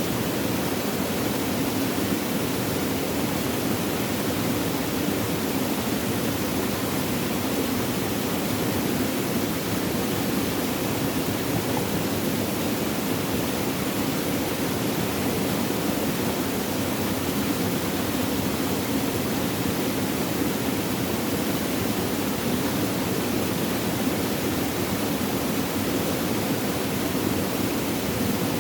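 Flowing water, a steady rushing with no change in level or pattern.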